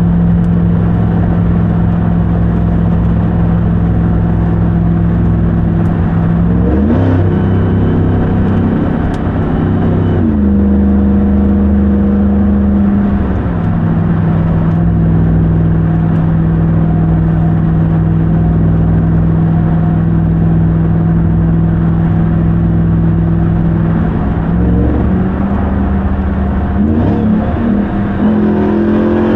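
Supercharged 6.2-litre Hemi V8 of a 2021 RAM 1500 TRX running at a steady, light cruise. The engine pitch rises about a quarter of the way in and steps back down over the next several seconds, then shifts a little again near the end.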